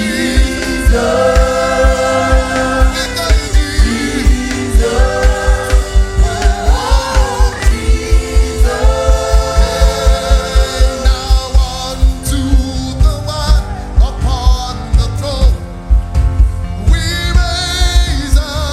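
Gospel worship music: several voices singing long, held phrases in harmony over a steady drum beat. About twelve seconds in the singing drops away, leaving the band's beat, and the voices come back near the end.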